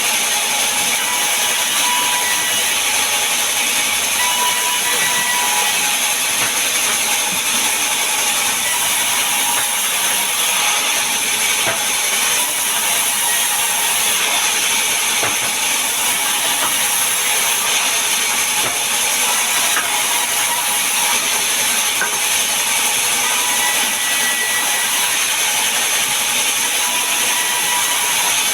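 Wood-sawing machine running steadily while cutting mahogany and pine timber: a loud, continuous, high-pitched mechanical noise with no break.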